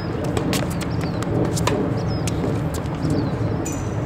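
Steady low outdoor rumble with a few short, falling bird chirps and scattered sharp clicks and taps.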